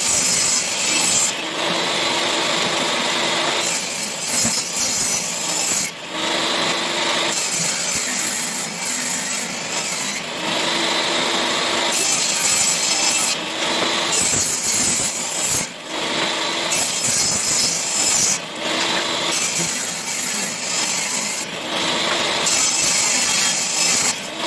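Power tool working wood, sawing or sanding in repeated passes of a second or two with short breaks between them.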